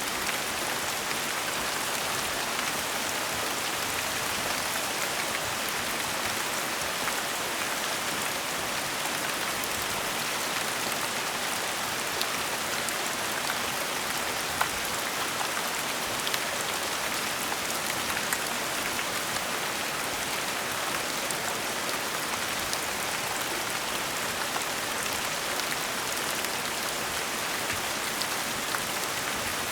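Steady gentle rain falling, an even hiss with scattered single drops ticking on a surface.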